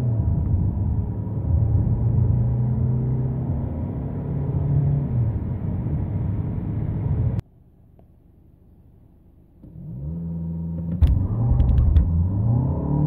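Four-cylinder 2.0 TDI diesel of a VW Passat B8 pulling hard at full throttle through the DSG gears, heard from inside the cabin, with a dip in engine pitch at a gearshift. About seven seconds in the sound cuts off abruptly; after a quieter two seconds the engine picks up again on another hard acceleration from low speed, with a few sharp clicks near the end.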